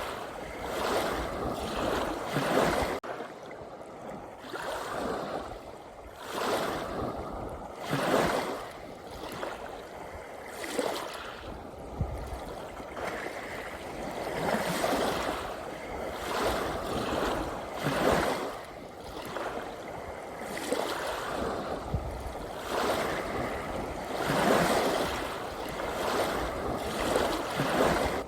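Small sea waves washing in, an irregular rush of water every one to three seconds.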